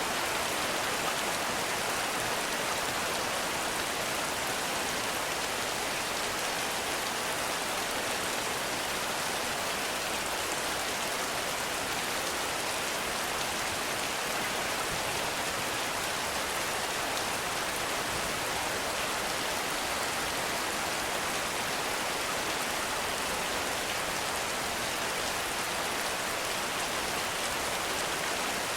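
Heavy rain falling steadily, an even hiss of drops with no change in strength.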